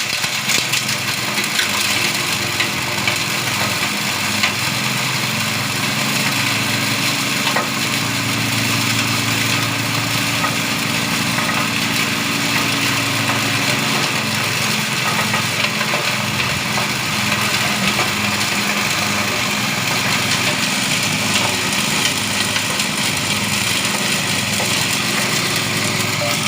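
Engine-driven multi-purpose chopper machine running steadily under load as it grinds goat manure into powder. The engine's steady hum sits under a dense rushing, ticking noise.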